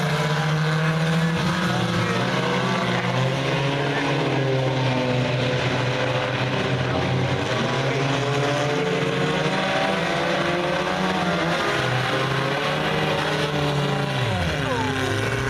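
Several race car engines running together at speed around the track, their pitches rising and falling. Near the end one car passes close by, its pitch dropping sharply.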